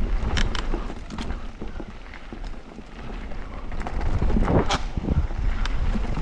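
Wind rumble on an action camera's microphone and an electric mountain bike rattling down a rough trail, with many sharp clicks and knocks from the chain and frame. There is a quieter stretch around two to three seconds in, and a louder hit a little past four and a half seconds.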